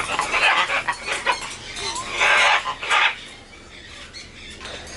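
Large exotic pet birds giving loud, harsh calls. There are several calls, the longest and loudest about two seconds in and another shortly after, then it goes quieter.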